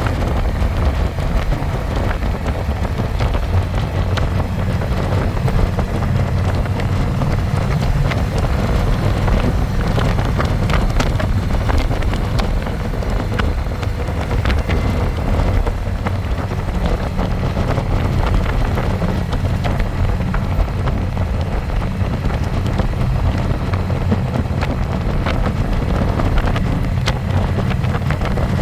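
Harley-Davidson Electra Glide's V-twin engine running steadily while riding, with wind buffeting the microphone.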